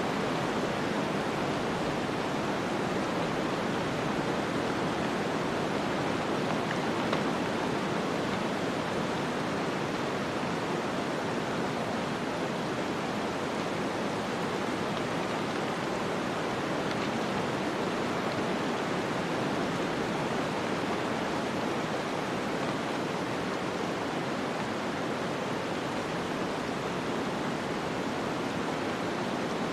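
Snowstorm ambience: a steady rushing of wind-driven snow, even and unbroken, with no gusts or separate sounds.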